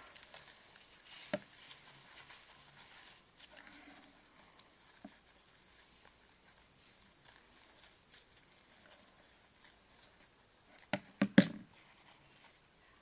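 Soft rustling and handling of craft material, then a stapler snapping three times in quick succession about eleven seconds in.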